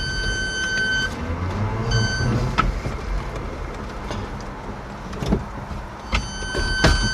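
Converted electric pickup truck driving with a steady high-pitched whine from its electric drive. The whine cuts off about a second in, blips briefly, and comes back near the end, over road and tyre rumble with a few knocks.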